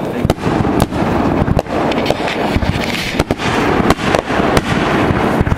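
Fireworks going off: a rapid, irregular series of bangs over continuous crackling, several loud reports a second at times.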